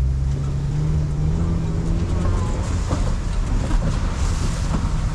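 Safari ride truck's engine running as it drives along, its pitch rising over the first two seconds, with scattered knocks and rattles.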